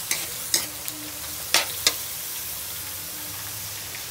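Sliced onions, peppers, tomatoes and garlic sizzling as they stir-fry in a stainless steel wok, with a steady hiss. A spatula scrapes and knocks against the pan four or five times in the first two seconds.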